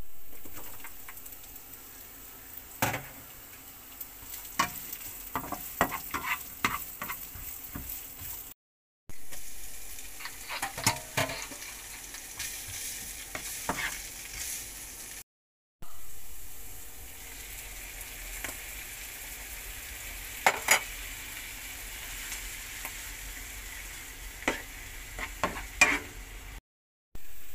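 Minced garlic and onion sizzling in oil in a nonstick frying pan, with a utensil scraping and tapping against the pan as they are stirred. The sizzle breaks off abruptly three times where short clips are joined.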